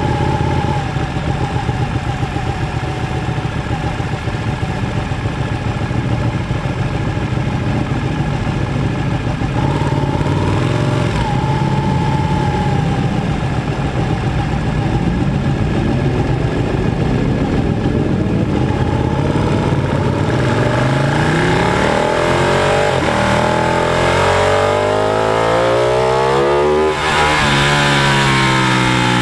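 Sport motorcycle engine heard close from its onboard camera, running at low revs while rolling slowly, then accelerating hard from about twenty seconds in, rising in pitch with a gear change near the end.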